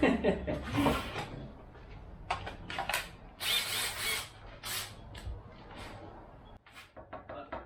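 Cordless drill being worked on 2x4 lumber, its battery flagging: a series of short clicks and knocks, with a harsher burst lasting about a second roughly three and a half seconds in.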